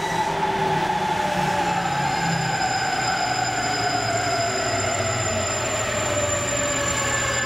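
Trains running past: an N700S Shinkansen on the adjacent elevated line at speed, with a local electric train on the nearer track. The rumble is steady, with a thin high whine and tones that slowly fall in pitch.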